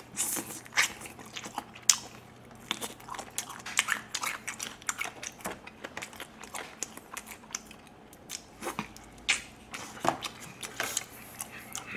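A person chewing a mouthful of grilled chicken meat: an irregular run of sharp mouth clicks and smacks, a few of them louder bites.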